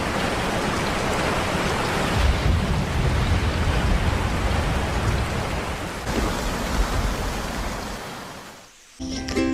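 Steady rushing, hissing noise with a deeper rumble through the middle, fading out near the end; just before the end it gives way abruptly to a rooster crowing over music.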